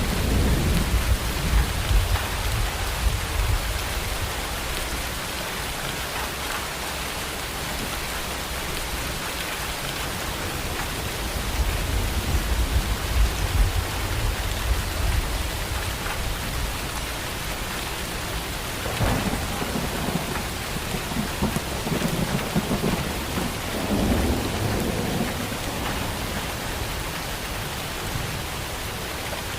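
Steady rain falling, with thunder rolling through it: a long low rumble at the start, another about halfway, and two sharper crackling peals in the later part.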